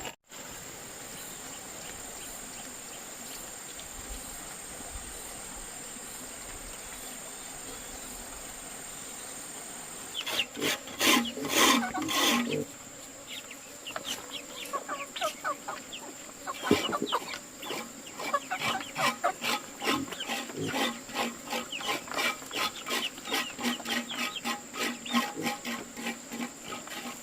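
An animal calling in quick repeated short notes over a steady high insect drone, loudest about ten seconds in.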